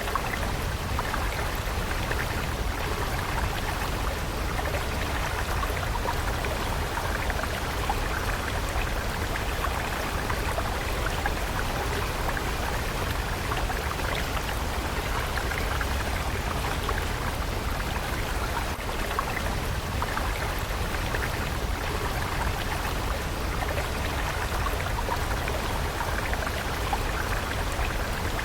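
Water stream flowing: a steady, even rushing and splashing that does not change.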